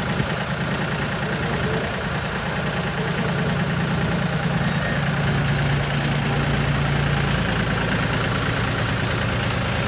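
Tractor engine running steadily with a rapid, even beat.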